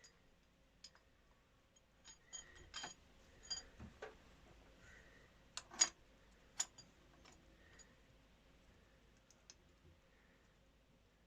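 Scattered sharp metallic clicks and clinks, the loudest about six seconds in, from metal engine parts and hand tools being handled while the valve rocker gear is refitted.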